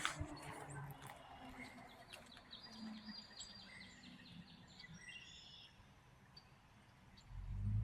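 Faint outdoor ambience with birds chirping, including a quick trill of repeated high notes in the middle. A low rumble rises near the end.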